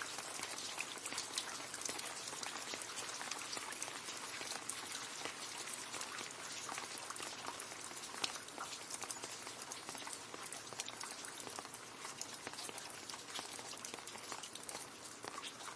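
Rain splashing into a puddle: a steady dense patter of many small drops hitting water.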